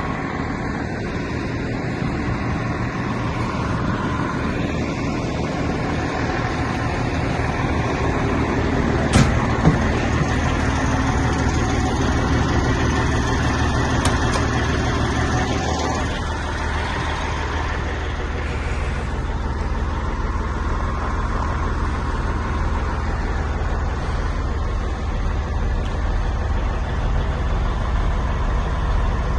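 The engine of a 2002 C500 bed truck running at idle with a steady low hum. There are two sharp knocks about nine seconds in, and a higher hiss drops away about halfway through.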